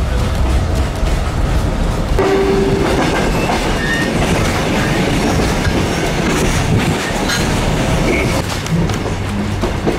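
Passenger train running along the track, heard from on board: a steady rumble with wheels clicking over the rail joints, and a brief steady tone about two seconds in.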